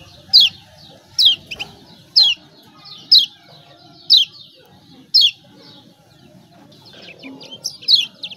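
Kecial kuning (Lombok yellow white-eye) giving sharp downslurred 'ciak' calls, one about every second, six in a row. After a short pause the rapid chattering calls start again near the end.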